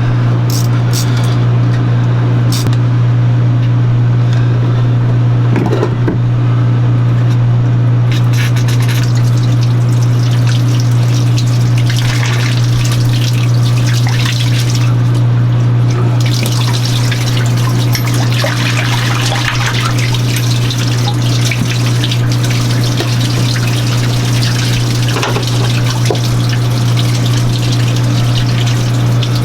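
Marine air conditioner's raw-water pump running with a loud, steady hum, with water trickling and splashing over it.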